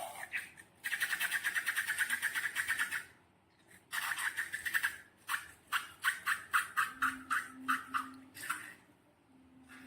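Sticky slime being squished and worked by hand, making wet squelching clicks: a fast run first, then slower, louder squelches about three a second.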